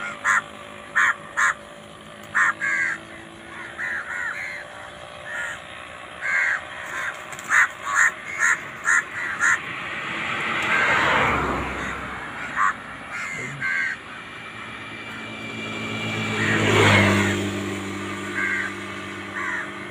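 Birds calling in short, repeated cawing calls. Two louder swells of rushing noise rise and fade, about eleven and seventeen seconds in.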